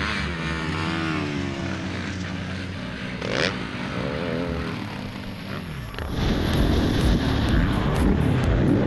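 Honda CRF450 four-stroke single-cylinder motocross engine running at low revs with a couple of short throttle blips, then at about six seconds growing louder and rougher as the bike pulls away under throttle.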